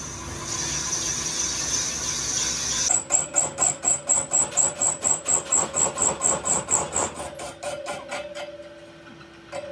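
Workshop tool work on metal: a steady hiss for about three seconds, then a fast, even run of squeaking scrapes, about four strokes a second, that fades away after some four seconds.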